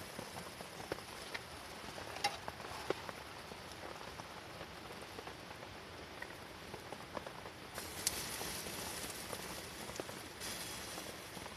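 Rain pattering on a canvas tent, heard from inside, with scattered sharp clicks through it.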